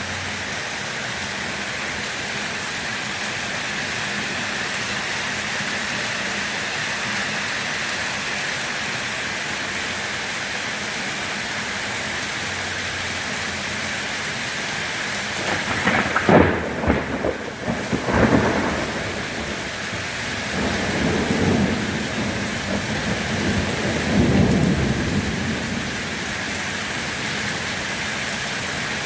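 Steady rain falling, with a sharp crack of thunder a little past halfway, followed by low rolling rumbles that fade back into the rain.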